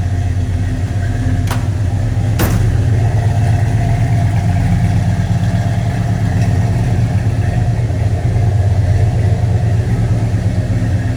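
Numbers-matching 402 big-block V8 idling steadily, with two sharp knocks about a second and a half and two and a half seconds in.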